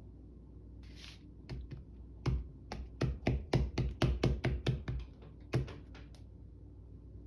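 Typing on a keyboard: a run of about fifteen quick key clicks, a few a second, stopping a couple of seconds before the end, as text spacing is corrected.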